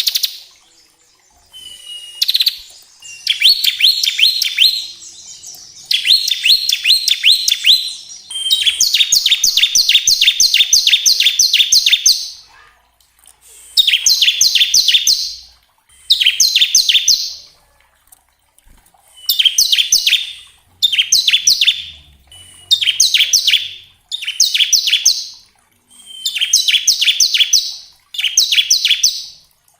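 Bar-winged prinia (ciblek) singing its rapid 'ngebren' song: repeated bursts of quick, sharp, falling chips, each lasting one to a few seconds with short pauses between, some opening with a brief steady whistle. The longest run comes about nine seconds in.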